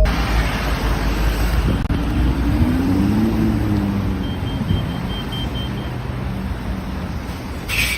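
Vehicle and road noise: a steady rush of engine and tyre noise, with an engine note that rises and then falls about three seconds in.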